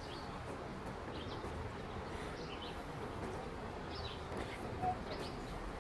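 Quiet outdoor ambience with a low background hiss and a few faint, short bird chirps scattered through it.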